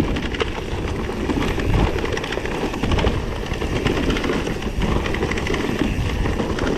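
Electric mountain bike with a Bosch Performance CX motor coasting downhill over roots: a dense, constant rattling chatter from the bike, mixed with tyre and trail noise.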